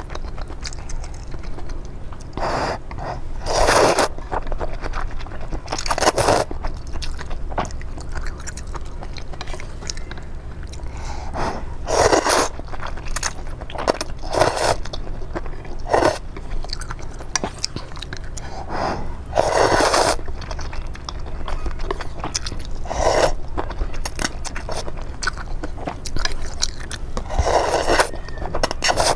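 Close-miked eating: steady chewing clicks with louder crunching bites every few seconds.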